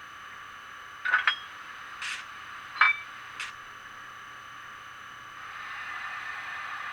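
Roco SJ Rc4 HO model locomotive's sound decoder playing a steady hiss with a faint whine, broken by a few short metallic clicks and clinks between about one and three and a half seconds in. About five and a half seconds in, a louder hissing sound swells up and holds.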